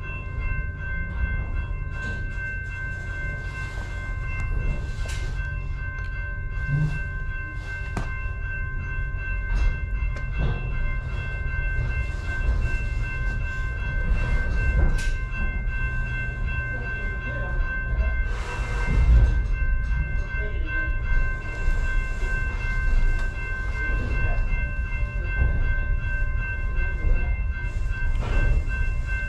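Passenger railcar rolling slowly along the track: a steady low rumble with scattered clicks and knocks from the wheels and car, and a steady high whine throughout. A louder rushing surge comes about two-thirds of the way through.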